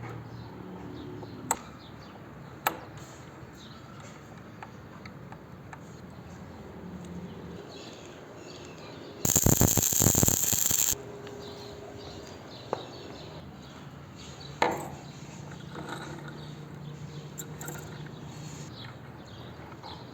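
Metalworking at a workbench: a few sharp clinks and knocks of metal parts being handled, and, about nine seconds in, a loud hissing burst of a power tool lasting under two seconds.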